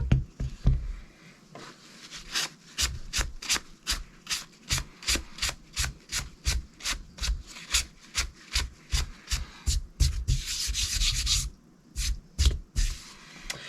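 Steel knife blade stroked back and forth across a diamond sharpening plate, a quick, even run of gritty scrapes about two and a half a second, with one longer unbroken scrape near the end before a few last strokes.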